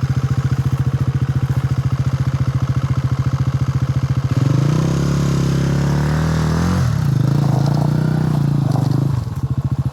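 Enduro motorcycle engine running at a steady, lumpy idle, revved up and eased off twice, about four seconds in and about seven seconds in.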